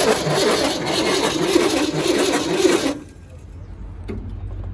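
Old Ford F-Series truck's engine cranking on its starter motor with an even rhythm, stopping abruptly about three seconds in. It turns over without firing.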